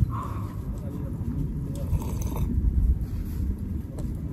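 A person sipping from a wooden cup and chewing food, with small mouth noises and soft clicks over a low steady rumble.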